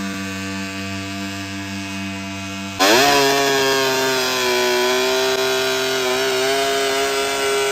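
Pulling-tractor engine running steadily. About three seconds in, the sound jumps louder and a higher-pitched engine climbs quickly in pitch, then holds at high revs, wavering slightly.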